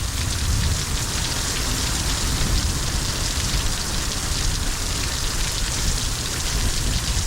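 Heavy rain pouring down steadily, a dense even hiss of rain hitting surfaces, during a thunderstorm downpour.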